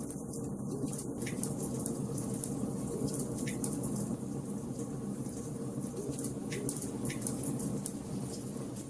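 Wood fire burning in a fireplace: a steady low rush of burning logs under frequent small crackles, with a few sharper pops scattered through.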